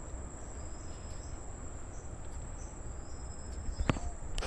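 Crickets trilling steadily on one high-pitched note, with a low rumble underneath. Two sharp clicks near the end.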